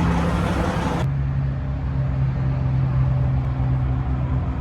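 Diesel semi-truck engine idling steadily: a low rumble with a held hum.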